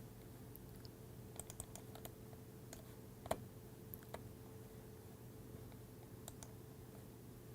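Faint, irregular clicks of a computer mouse and keyboard being worked during CAD modelling, one sharper click about three seconds in, over a faint steady hum.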